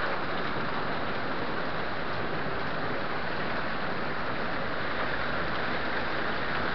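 Steady hiss of a summer storm: heavy rain falling with wind, even throughout.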